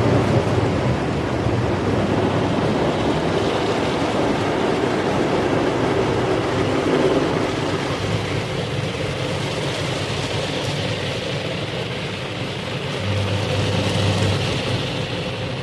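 Car wash running: a steady rush of spraying water with a low mechanical hum underneath, turning brighter and hissier in the second half.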